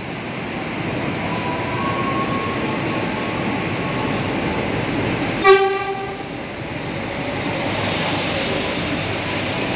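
A Prameks commuter train pulls in alongside and rolls past. The rush of its wheels and running gear grows louder about a second in and then holds steady. A faint thin squeal runs from about two to four seconds in, and a single short horn blast sounds about five and a half seconds in.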